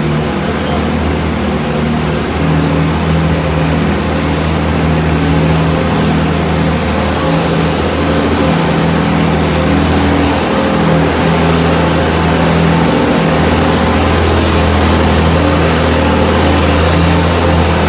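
Antique farm tractor engine running loud and steady, its pitch holding nearly level throughout.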